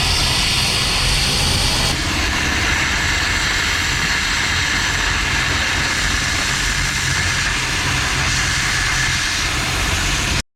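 Steady, loud machine noise with a low hum, slightly changing about two seconds in and cutting off suddenly near the end.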